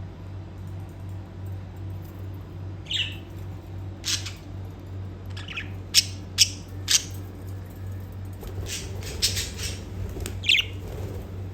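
Budgies giving short, sharp chirps and squawks, starting about three seconds in and bunching together near the end, over a steady low hum.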